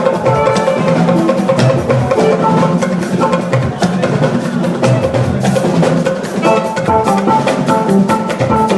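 Church band music with a busy drum-kit beat and held pitched instrument notes, with no words.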